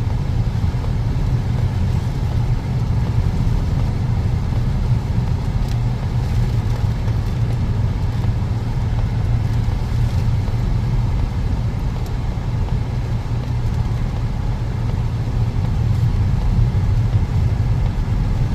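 Car driving steadily: an even, low rumble of engine and road noise.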